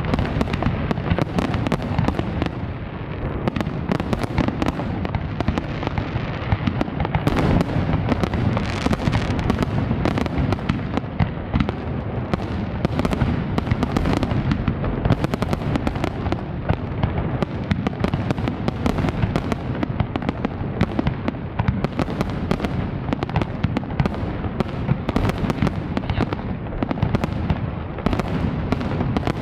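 Large fireworks display: a dense, continuous barrage of shell bursts, bangs and crackling with a low rumble, going on without pause.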